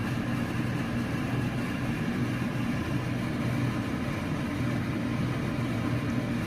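Pot of rice at a full boil on the stove, heard as a steady low rumble with a hum that does not change.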